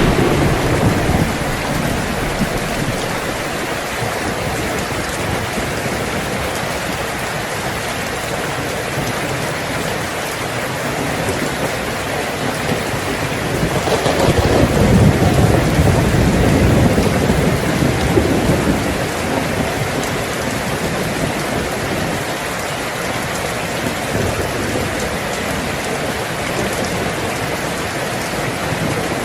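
Heavy rain falling steadily on a tin roof, with thunder: the rumble of a crack fading over the first second or so, and a longer low roll swelling about 14 seconds in and dying away by about 19 seconds.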